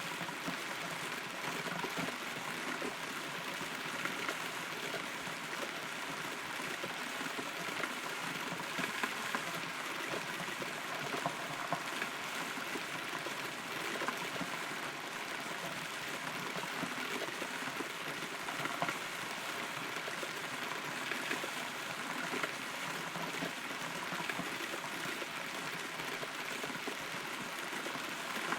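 Rain heard from inside a hollow rotten tree trunk: a steady, dense patter of drops, with scattered louder single drips.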